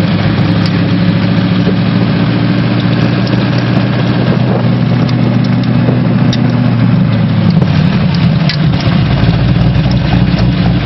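A vehicle engine running steadily, its note changing and a deeper rumble coming in about eight seconds in.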